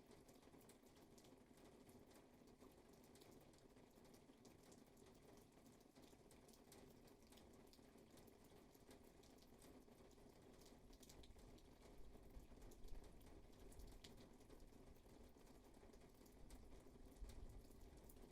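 Faint steady rain, a dense patter of small drop ticks over a soft hiss. In the second half a low rumble swells twice, with a few louder drop hits.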